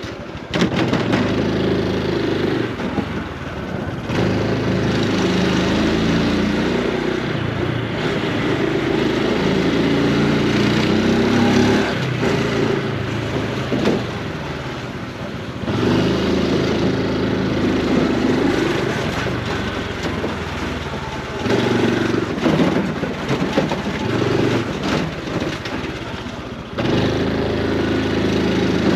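Honda Super Cub C125's single-cylinder four-stroke engine and exhaust under way. Its pitch climbs and falls repeatedly, with short dips at gear changes or when the throttle is eased.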